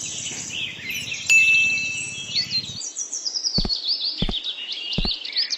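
Birds chirping in a fast string of repeated high, looping notes. Three short knocks come in the second half.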